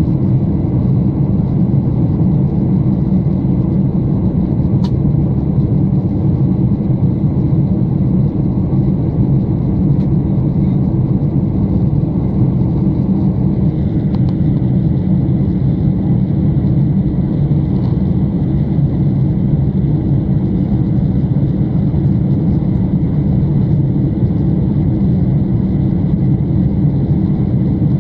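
Boeing 747 passenger-cabin noise in flight: a loud, steady low rumble of the engines and airflow heard from inside the cabin.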